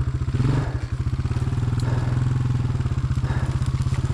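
Enduro motorcycle engine running at low revs with a fast, even firing pulse, and a short blip of throttle about half a second in.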